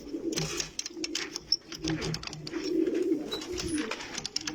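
Domestic pigeons cooing, several low coos overlapping, with scattered light clicks and taps.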